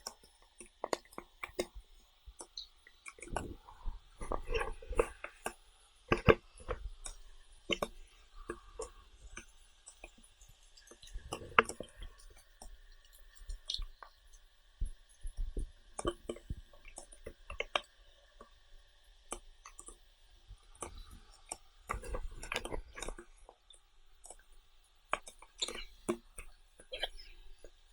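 A person eating close to the microphone: irregular chewing and mouth smacks with small clicks, in uneven clusters.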